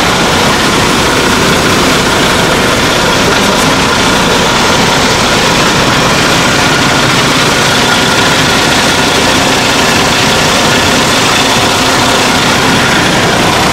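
Semi truck's diesel engine idling steadily, running on its own after being jump-started from a battery charger.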